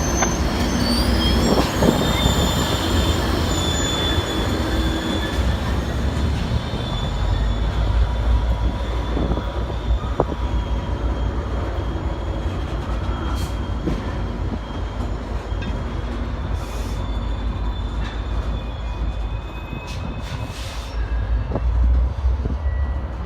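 Passenger train rolling along the rails, with a steady rumble and high, thin wheel squeal from the steel wheels against the rail.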